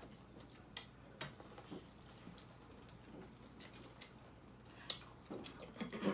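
Faint, scattered clicks and cracks of hands working through a seafood boil, cracking crab-leg shells and handling food, with a few sharper snaps about a second in and again near the end.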